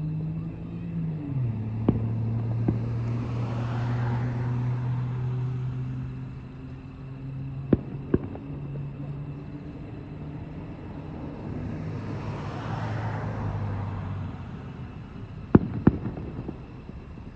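Distant fireworks bursting as sharp bangs that come in pairs: a pair about two seconds in, another about halfway through and a third near the end. Under them runs the steady hum of an engine, which drops in pitch about a second in and stops a few seconds before the end.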